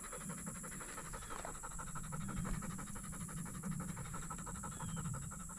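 A hunting retriever panting rapidly and steadily close by, winded from a retrieve.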